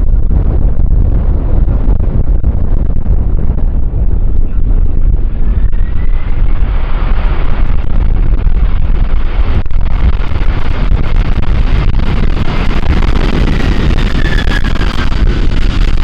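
Strong wind buffeting the microphone with a heavy, steady rumble. From about six seconds in, a jet airliner's engine whine grows louder over it.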